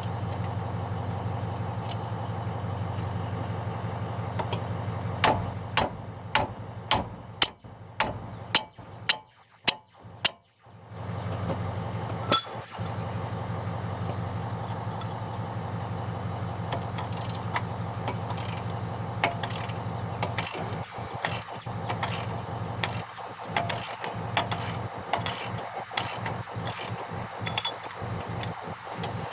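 A run of about ten sharp hammer blows, roughly two a second, from about five to ten seconds in, striking a rusted-on original brake rotor to break it loose from the hub. Lighter metal clicks and taps follow later. A steady low mechanical hum runs underneath.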